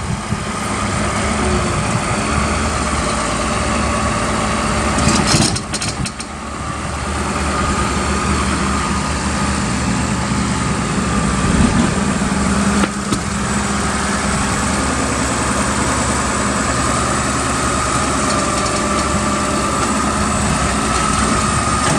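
Komatsu D65WX-17 crawler dozer's diesel engine running steadily, a steady whine over the low engine note, with a few brief knocks about five seconds in and another near thirteen seconds.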